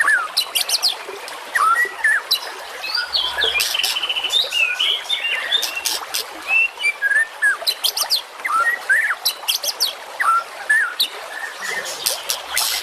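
Recorded songbird chorus: several small birds chirping and whistling over one another in quick, sharp notes and short gliding whistles, with no pause. This is a masteran training track of bird calls, played to teach caged songbirds such as the white-rumped shama.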